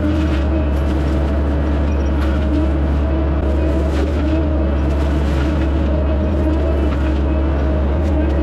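ASV RC85 compact track loader running steadily with its forestry mulcher head spinning, a constant engine drone with a steady hum over it.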